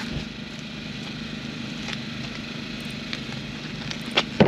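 A steady low engine hum, with two sharp knocks near the end.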